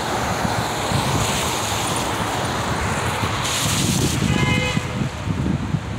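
Car travelling on a wet street: steady road and tyre noise with wind buffeting the microphone. A loud hissing swish comes a little past halfway, followed by a brief high tone.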